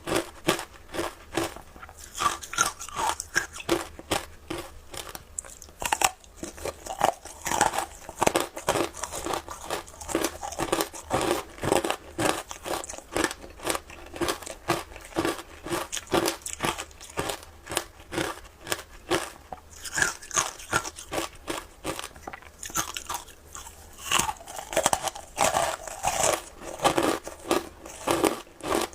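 Shaved ice being bitten and chewed close to the microphone: a dense, continuous run of crisp crunches, several a second, with no pauses.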